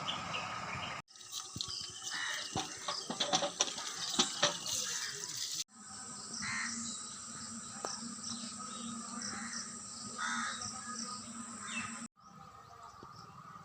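Birds calling outdoors in a few short call notes, heard across several spliced clips. Sharp clicks and knocks run through the first part.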